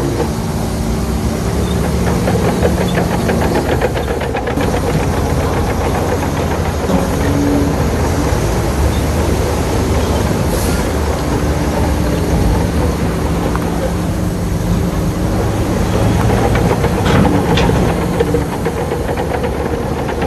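Shantui bulldozer's diesel engine working steadily, its pitch shifting up and down as the load changes, with a continuous clattering rattle.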